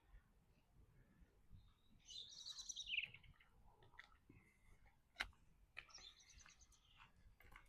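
A songbird singing faintly: a quick run of high notes falling in pitch about two seconds in, and another fast run of high notes around six seconds. A single sharp click a little after five seconds.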